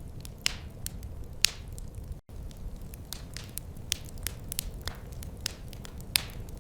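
Wood fire crackling: a steady low rumble with many small crackles and a few louder, sharp pops. The sound cuts out for an instant just after two seconds in.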